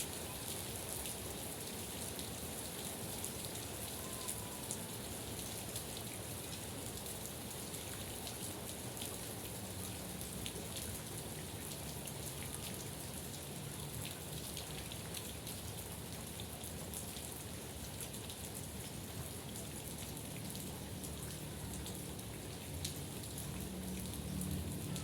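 Steady rain falling, a continuous hiss with many small drop ticks, with a low rumble rising near the end.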